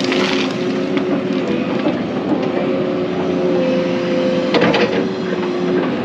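Excavator's diesel engine running steadily under load while it digs a ditch in clay, with a brief clatter near the start and another about four and a half seconds in.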